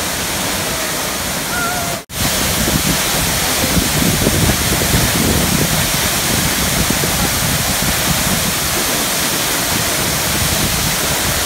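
Loud, steady rushing roar of a large waterfall, with one brief gap about two seconds in.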